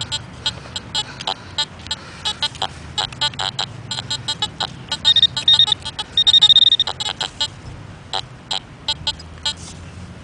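Crunching and scraping of soil being dug out of a small hole by hand, as many short gritty ticks. About five seconds in, a metal-detecting pinpointer gives a short beep and then a longer, steady high beep, signalling a metal target still in the hole.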